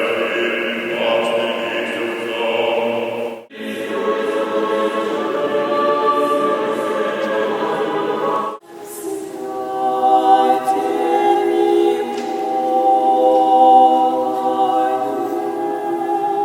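Church choir singing Orthodox chant unaccompanied, in sustained chords. The singing breaks off abruptly twice, about three and a half and eight and a half seconds in, and carries straight on after each break.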